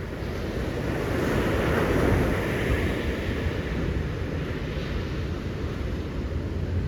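Ocean surf: a wave breaking and washing in, swelling to a peak about two seconds in and then easing to a steady wash, with wind rumbling on the microphone.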